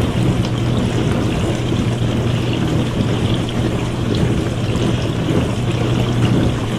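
Dishwasher running, water spraying and splashing inside the tub over the steady low hum of its pump.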